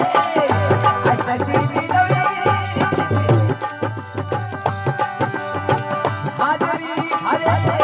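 Rajasthani folk devotional song: a fast, even hand-drum rhythm under held melody notes, with a singing voice gliding in near the start and again near the end.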